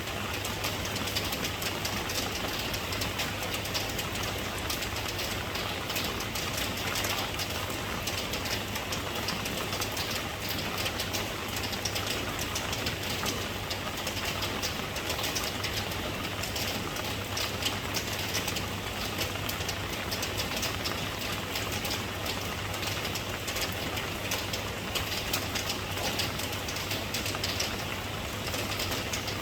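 Steady rain falling, a dense, even patter of drops without a break, over a low steady hum.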